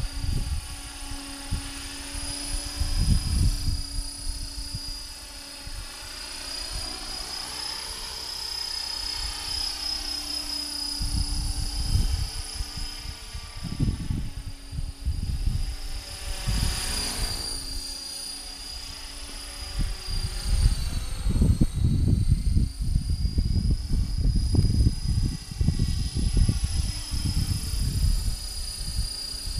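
Electric 500-class RC helicopter (HK-500GT with a Turnigy Typhoon 500H motor) in flight: a steady high-pitched motor-and-rotor whine that swells and dips briefly about halfway through and again a little later. Gusty wind buffets the microphone with low rumbling at times.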